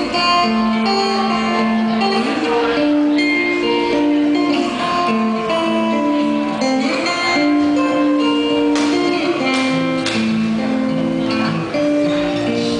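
Instrumental break in a song: guitar playing over the band, with held melodic notes and strummed chords and no singing.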